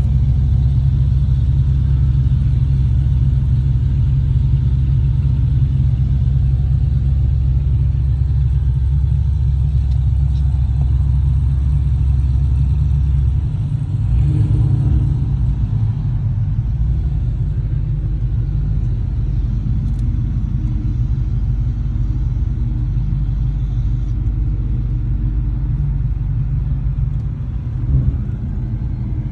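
1935 Terraplane's engine running as the car is driven in: a steady low rumble whose deepest part drops away about halfway through.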